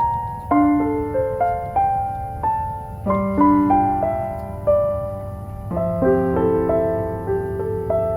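Gentle piano music, single notes and soft chords struck one after another, each ringing and fading, over a steady low background hum.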